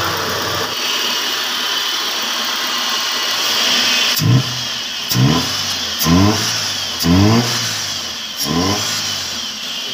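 Suzuki Liana's four-cylinder engine running over a steady hiss, then revved in five short blips about a second apart, each rising in pitch. The engine has overheated, and the mechanic takes its head gasket to be blown.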